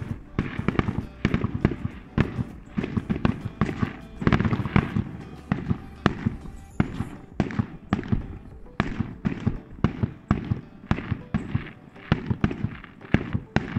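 Fireworks display: a rapid, irregular string of sharp bangs and crackles, several a second.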